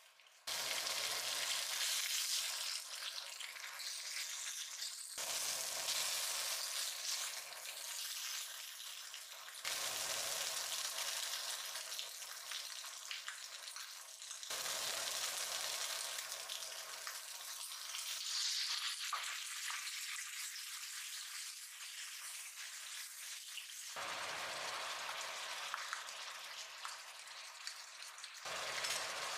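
Starch-coated squid pieces sizzling as they fry in oil in a nonstick frying pan. The sizzle starts suddenly and changes abruptly several times.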